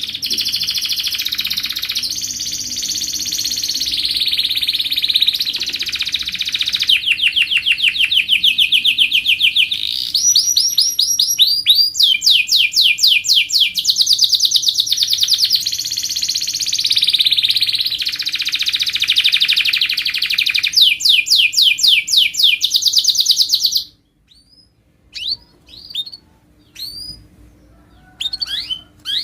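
Domestic canary singing a long, unbroken song of rapid trills and rolls, each run held for a second or two before switching to another pitch and speed. The song stops abruptly about 24 seconds in, after which come only a few short single chirps.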